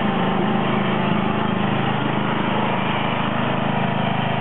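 John Deere 111 lawn tractor engine running steadily under way.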